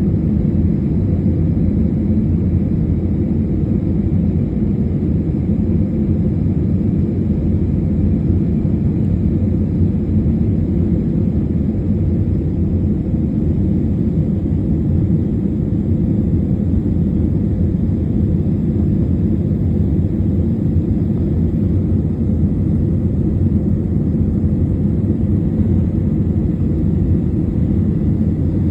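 Airliner in its climb after takeoff: a steady, unbroken low rumble of engines and rushing air, as heard from inside the cabin, with a faint steady whine above it.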